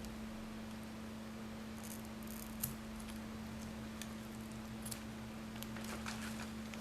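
Faint clicks and brief rustles of an LED ribbon being cut around its wire, a few scattered small snips, over a steady low hum.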